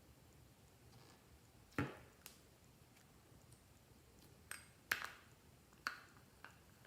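Glossy slime being handled, giving a handful of sharp clicks and pops with quiet between them: one about two seconds in, then a cluster in the second half.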